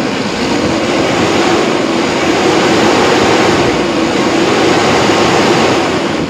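4M50 four-cylinder turbodiesel truck engine running steadily, now starting on one crank with a new crankshaft sensor and suction control valve fitted.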